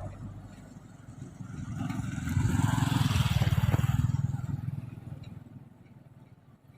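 Tractor engine running with a steady pulsing beat. It grows louder about two seconds in, then fades away toward the end.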